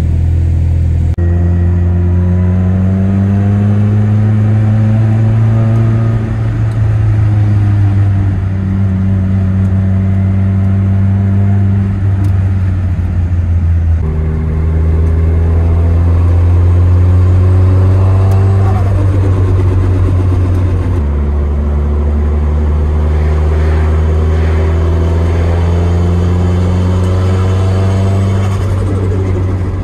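Nissan S13's turbocharged SR20DET four-cylinder pulling hard through the gears: the engine note climbs steadily, then falls away at each upshift, several times over.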